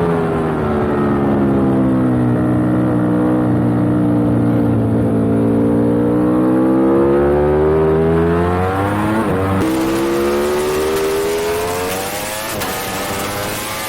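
On-board sound of a racing superbike's engine on track. The revs fall for the first few seconds as the bike slows, then climb again under acceleration, with upshifts about ten seconds in and again near the end. A rush of wind noise rises from about ten seconds in as speed builds.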